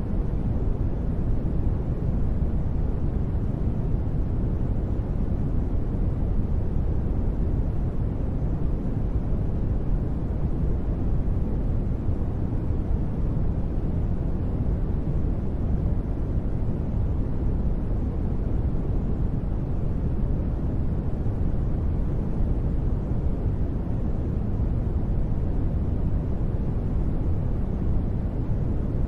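Steady sleep noise: an even, unbroken rush with most of its weight in the deep low end and little hiss on top, so it sounds more like brown noise than bright white noise. It never changes.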